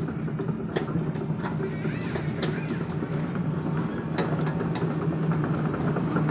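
Sumitomo SH 75 excavator's diesel engine running steadily, with sharp knocks scattered through, about one a second.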